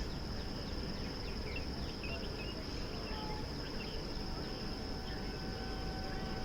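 Insects trilling steadily in a high, unbroken drone, with scattered short bird chirps over a low outdoor rumble; a faint steady tone comes in about two-thirds of the way through.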